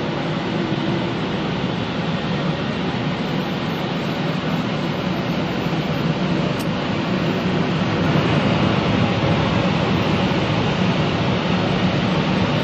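Automatic car wash machinery running over the car, heard from inside the car as a loud, steady rush of noise that grows a little louder about eight seconds in.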